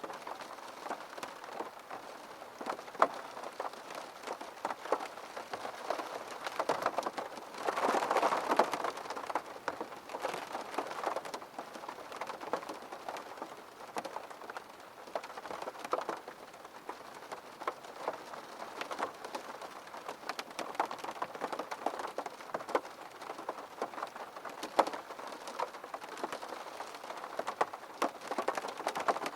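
Rain falling on a window pane: a steady hiss of rain with many separate drops ticking against the glass. A louder swell of rain comes about eight seconds in, then eases.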